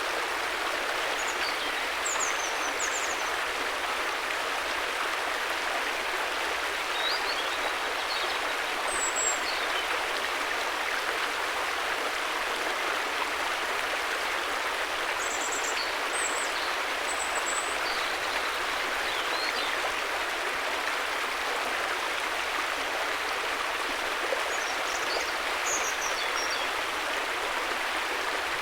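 River water rushing steadily over rocks in a constant, even flow. A few short, high chirps of small birds come and go above it.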